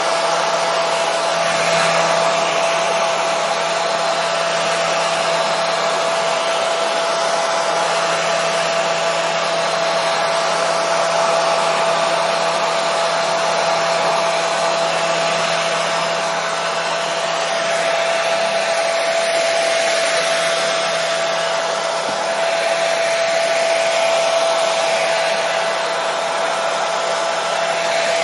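Hair dryer running steadily at a constant speed: an even rushing blow with a steady whine from the motor, unchanging throughout.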